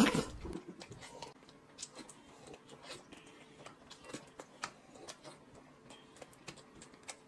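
Faint, irregular clicks and mouth smacks of a man eating dumplings with chopsticks.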